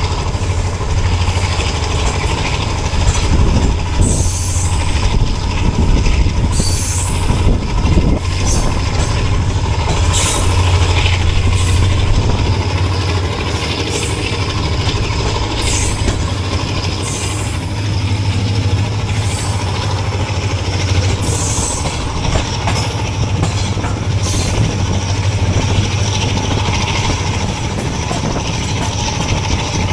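A passenger train running behind a ZCU-30 diesel-electric locomotive. There is a steady low engine drone under the rumble of wheels on rail, and a brief high squeal every few seconds.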